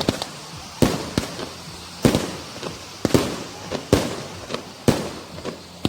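A series of sharp bangs, about one a second, with smaller pops and crackles between them.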